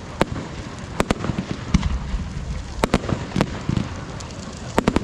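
Fireworks display going off: many sharp bangs at irregular intervals, several a second, over a steady crackle.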